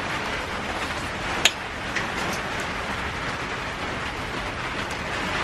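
Heavy rain falling steadily, with a single sharp click about a second and a half in.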